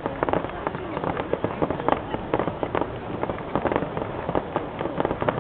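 Fireworks display: a dense, irregular volley of firework bangs and crackles, several per second.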